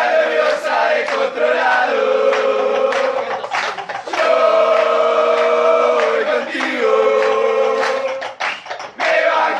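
A group of voices singing or chanting together, holding long notes.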